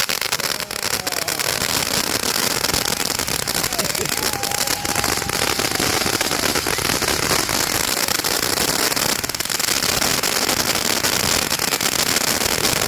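A lit consumer firework burning with a steady, dense hiss and rapid crackling that goes on without a break.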